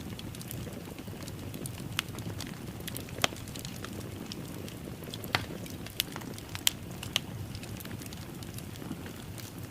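Wood fire crackling in a fireplace: a steady low rush of burning with scattered sharp snaps and pops, the loudest about three seconds in and again a little past six seconds.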